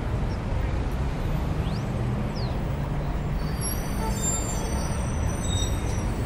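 Steady outdoor background rumble with a low hum, like distant traffic, with a few faint high chirps and thin whistles over it.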